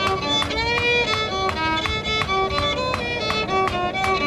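A fiddle playing a tune, over sharp, evenly spaced hammer strikes on hot iron at an anvil, about three or four a second.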